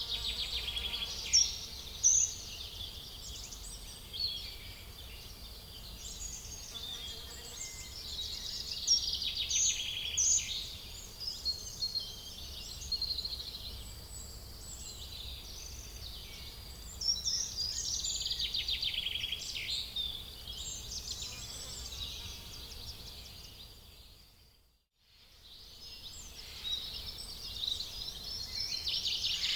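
Outdoor ambience of many birds chirping and trilling, mixed with buzzy insect-like trills, over a faint low rumble. The sound fades out and comes back in about 25 seconds in.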